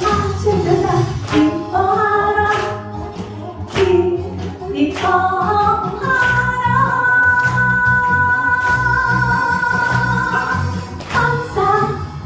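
Gospel song sung by a woman over an instrumental accompaniment. She holds one long note from about six seconds in to about eleven.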